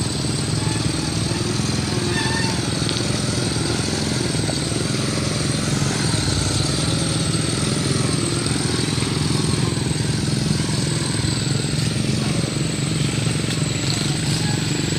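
A motor running steadily throughout, with a constant high-pitched whine over it.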